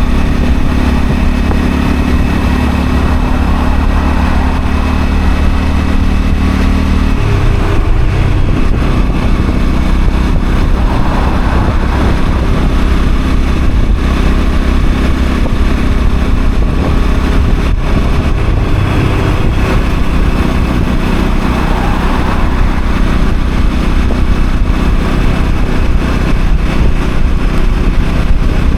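Honda CL250 motorcycle engine running at a steady speed while riding, with wind noise over the microphone; the engine note changes about seven seconds in.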